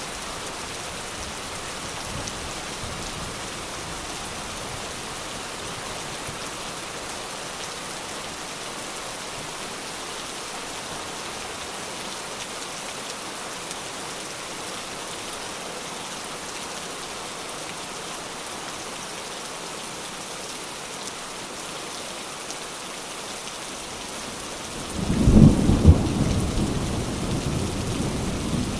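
Steady heavy rain falling, an even hiss. Near the end a loud clap of thunder breaks in and rolls on as a low rumble.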